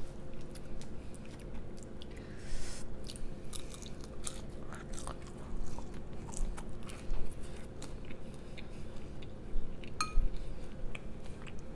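Close-miked chewing and biting of food, with many scattered small clicks and wet mouth smacks, over a faint steady hum.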